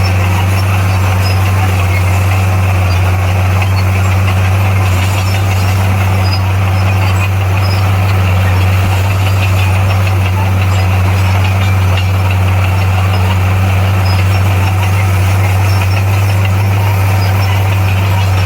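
Heavy diesel engine of earthmoving machinery running steadily: a deep, constant drone that holds the same pitch throughout, with a noisy clatter over it.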